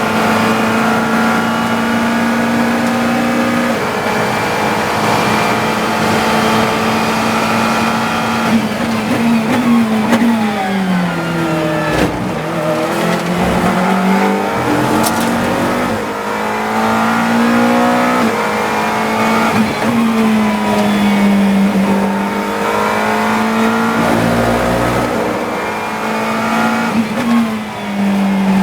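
GT3 race car engine heard from inside the cockpit, pulling hard through the gears with stepped upshifts. About ten seconds in the revs fall through a run of downshifts under braking, with a sharp click near the bottom, and then climb again as it accelerates out.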